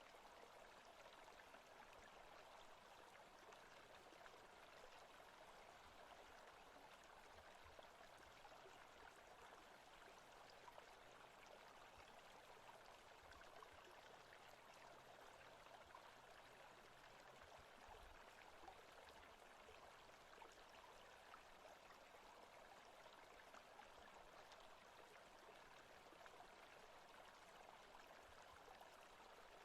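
Faint, steady rushing of a stream in a forest ambience track.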